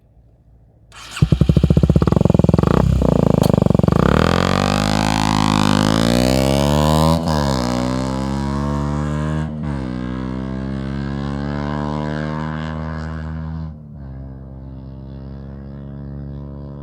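Kawasaki Z125's single-cylinder four-stroke engine through a LeoVince aftermarket exhaust, ticking over faintly, then opening up loudly about a second in. The pitch climbs, drops sharply twice as it shifts up, holds steady and then falls to a lower level near the end.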